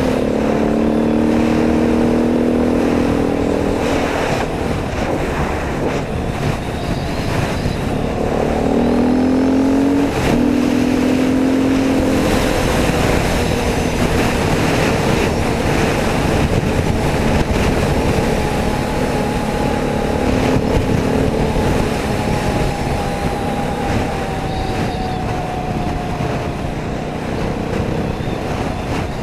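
Dirt bike engine running under load while being ridden, its pitch climbing and dropping with the throttle, with a rise about a third of the way in and a slow fall near the end.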